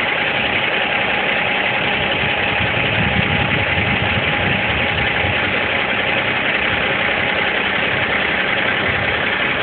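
Heavy diesel engine idling steadily, with a low rumble that swells slightly a few seconds in.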